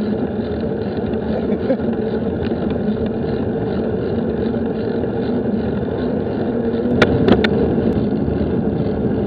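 Steady rumble of wind and riding noise on a bike-mounted action camera, with a few sharp clicks about seven seconds in.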